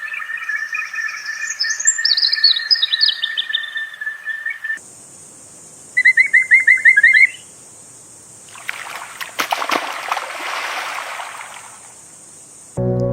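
Wild birds chirping and calling over a steady high insect-like drone. After an abrupt change, a high steady hiss, a quick run of about eight chirps, then a rush of noise. Music starts near the end.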